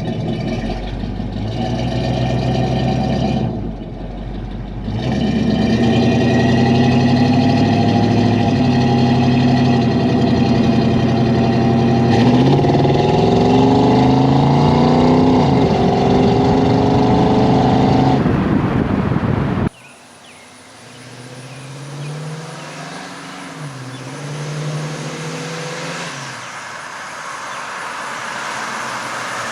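1964 Pontiac GTO's 389 V8 running through Flowmaster Super 44 mufflers. It is loud and under load, with its note climbing in pitch as it accelerates. About two-thirds of the way in the sound cuts off abruptly and is replaced by a quieter stretch of the same exhaust note rising and falling.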